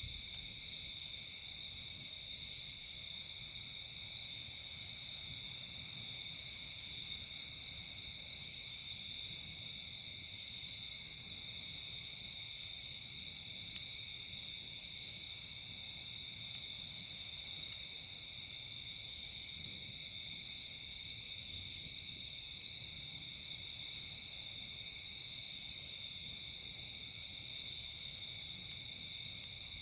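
Steady chorus of night insects, crickets among them, a continuous high trilling with a still higher buzz swelling and fading every five or six seconds.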